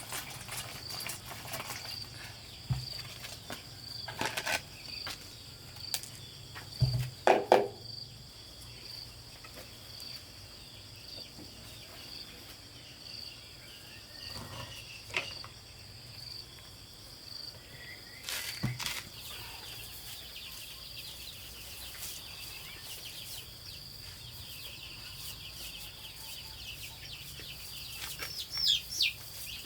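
Crickets chirping in a high, steady pulse, about one and a half chirps a second, with scattered sharp knocks and a short high chirp near the end.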